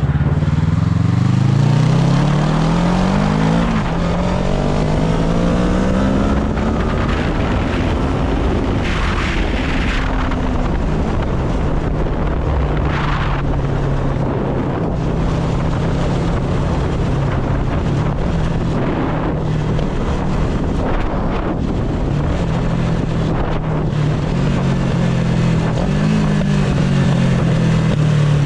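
Motorcycle engine pulling away, its pitch climbing through a few upshifts, then holding a steady cruising drone, with a brief rev rise and drop near the end. Some wind noise on the microphone at times.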